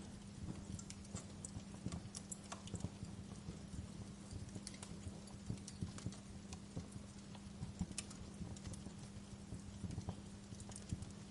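Wood fire crackling in a fireplace: irregular sharp pops and snaps over a low steady hum.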